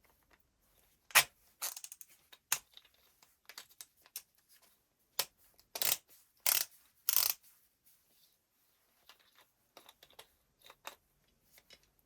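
Small parts handled by hand on a workbench: a run of sharp clicks and short scrapes, the loudest about a second in and several more between five and seven and a half seconds, then fainter ticks.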